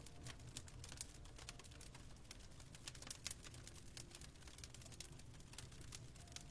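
Fireplace fire crackling quietly: irregular sharp snaps and pops over a low steady rumble.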